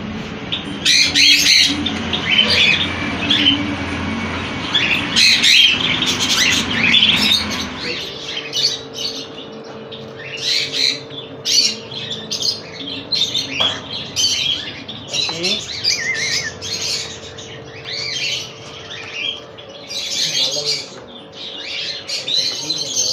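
Cockatiels squawking: short, harsh, high-pitched calls repeated many times. A steady low hum underneath stops about eight seconds in.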